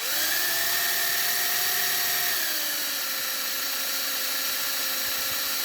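Electric drill running with a 1.5 mm bit drilling into the soft die-cast alloy post of a model truck's base. It makes a steady whine that drops a little in pitch just over two seconds in.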